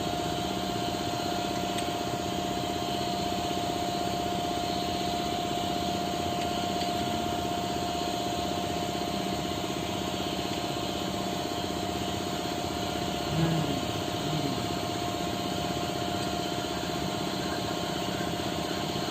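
Steady hum of a machine running, with one steady high whine over it.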